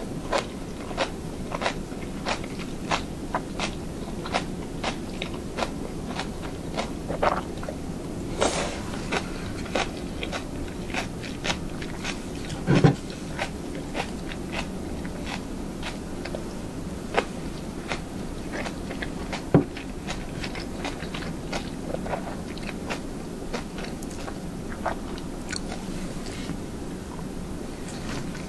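Close-miked eating: a person chewing mouthfuls of noodles and rice, giving a steady run of wet mouth clicks and smacks, with a few louder knocks, the loudest about halfway through.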